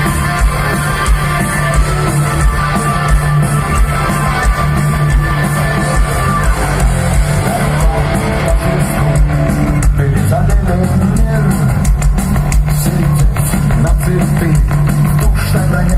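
Rock band playing live through a concert sound system: guitars over a drum kit and bass, loud and steady.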